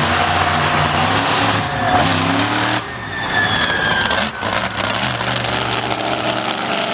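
Vehicle engines running steadily, with one revving up about two seconds in.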